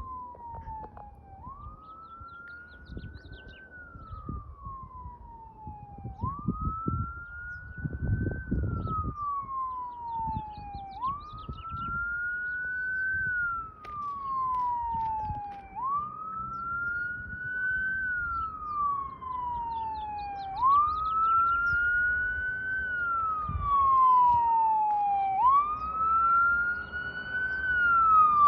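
Emergency vehicle siren in a slow wail, each cycle rising and then falling about every five seconds, growing louder as it approaches. A low rumble of passing traffic rises briefly about eight seconds in.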